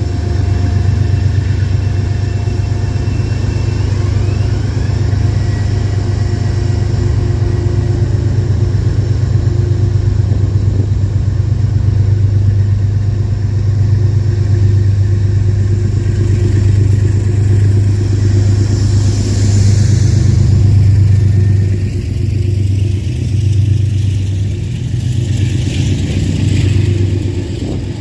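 Metro-North commuter train running at the station platform: a loud, steady low drone with a fast pulsing, easing a little in the last few seconds.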